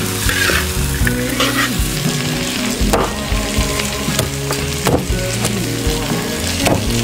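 Tofu-skin strips stir-fried in sauce in a large wok: steady sizzling with a spatula stirring. A few sharp knocks about every two seconds are cleaver chops on a wooden board.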